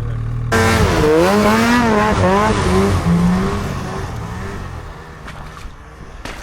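Snowmobile engine revving hard as it sets off through deep snow, its pitch rising and dipping, then fading as it moves away.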